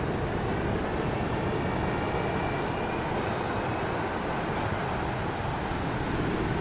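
Big ocean surf breaking on a beach: a steady rush of noise with a low rumble.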